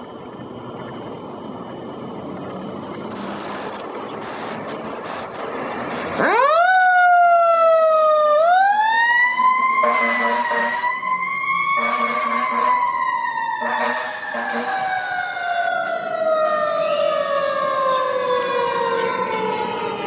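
Fire engine approaching with its engine running, then its Federal Q mechanical siren winding up about six seconds in. The siren rises sharply in pitch, dips briefly, climbs again to a peak, then winds down in a long falling wail.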